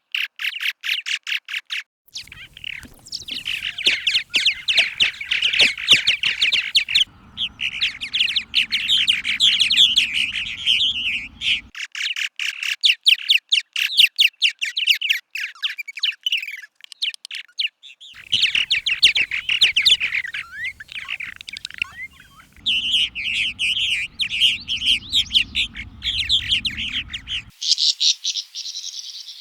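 Swallows twittering: fast runs of high chirps and warbles in a series of separate recordings that change abruptly every few seconds, some with a low background rumble.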